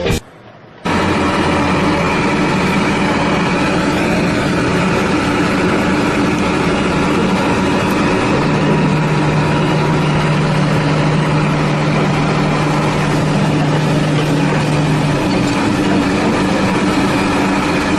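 An engine running steadily, with an added steady hum for several seconds in the middle.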